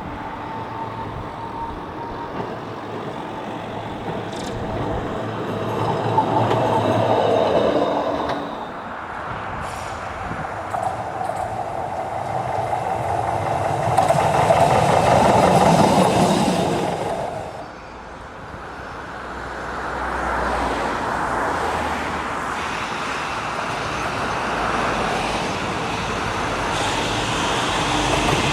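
Trams running on rails: wheel-on-rail rumble and motor noise swelling twice as trams pass, dropping sharply about eighteen seconds in, then building again.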